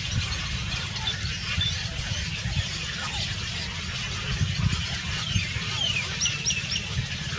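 Small birds chirping: scattered faint high calls, then three quick, very high chirps in a row near the end, over a steady low rumble.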